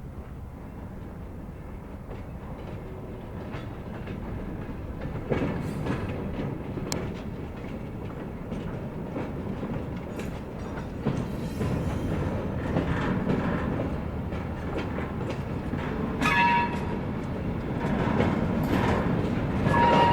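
Diesel locomotive and freight cars moving slowly in a backing move to couple up, the rumble and rail clatter growing louder, with scattered clanks. A brief high tone sounds about 16 seconds in and again at the end.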